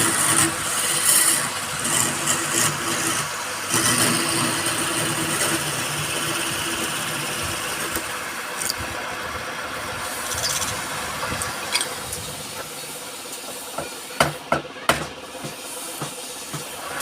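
Wood lathe running with a steady motor hum while a turning tool cuts the spinning wood. The sound grows quieter about twelve seconds in, and a few sharp clicks follow.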